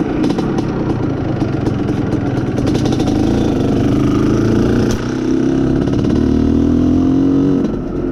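IZh Planeta Sport motorcycle's single-cylinder two-stroke engine running under load while being ridden. The engine note dips about five seconds in, climbs steadily again, then falls off near the end.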